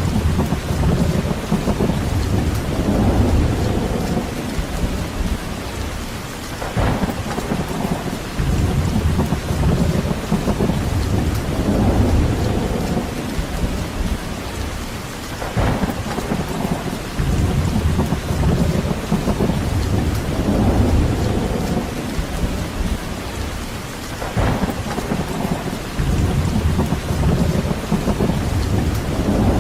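Steady heavy rain, with a deep rumble swelling and fading about every eight or nine seconds.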